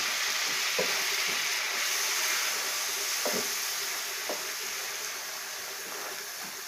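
Curry spice paste frying in oil in a nonstick frying pan, sizzling steadily just after a splash of water was added to stop it drying out, with a few short scrapes of a spoon as it is stirred. The sizzle slowly quietens.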